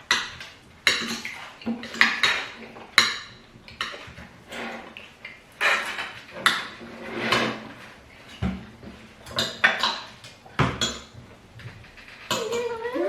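Cutlery clinking and scraping against plates at a meal, in short irregular clicks and clatters.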